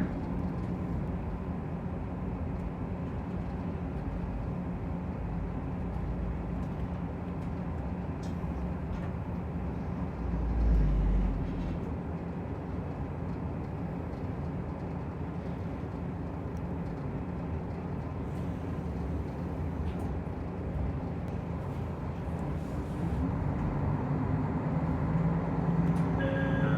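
Diesel railcar running on the line, heard from inside the car: a steady engine drone over wheel and rail rumble. A heavier low rumble comes about ten seconds in, and the engine note rises and grows louder near the end.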